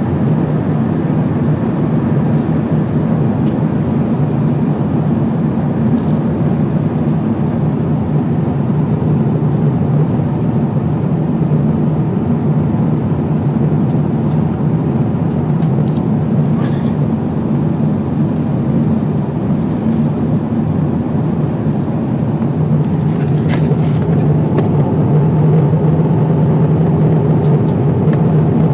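Steady cabin roar of an Airbus A350-900 at cruise, engine and airflow noise blended into a low hum. A few faint clicks and rattles come about three-quarters of the way through, and the roar grows a little louder near the end.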